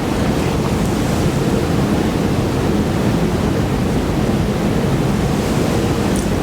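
Close-miked chewing of French macarons: a dense, steady mouth noise with no breaks, with a few faint ticks near the end.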